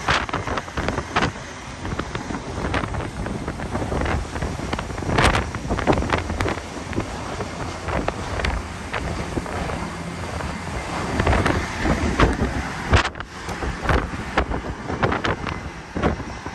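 Gale-force wind buffeting the microphone in irregular, uneven gusts.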